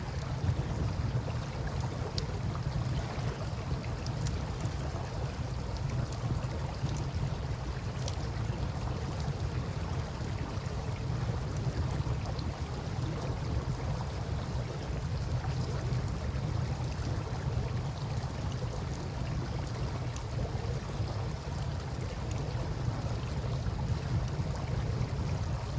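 Campfire burning beside a river: a few faint crackles and pops over a steady low rush of flowing water.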